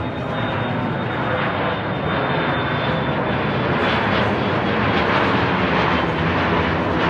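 Airplane flying low overhead, its engine noise a dense, steady rush that slowly grows louder.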